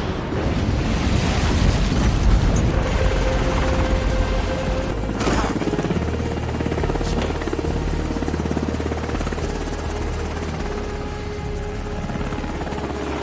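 Helicopter rotor and engine noise running steadily, mixed with a dramatic music score, with a heavy low rumble in the first few seconds.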